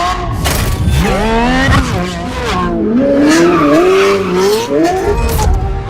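Lamborghini Revuelto's 6.5-litre V12 engine revving hard, its pitch climbing and dropping back several times.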